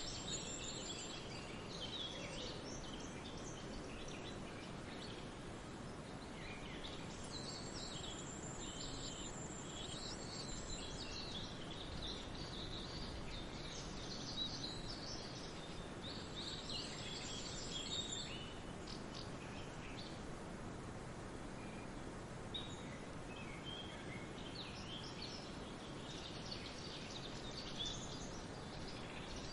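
Several forest birds singing and chirping over a steady rushing background. A high, thin trill comes in three times: at the start, around a quarter of the way in, and past the middle.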